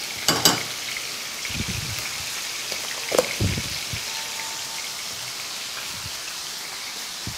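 Diced chicken breast sizzling steadily in hot oil in a frying pan, with a few light clicks and knocks, near the start and about three seconds in, from a spoon against the cookware.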